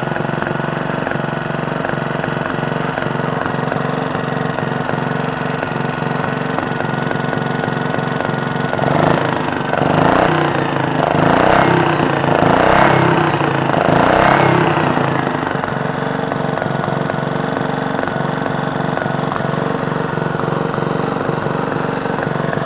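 Briggs & Stratton Model NS single-cylinder engine running steadily, speeding up briefly four times in quick succession about halfway through before settling back.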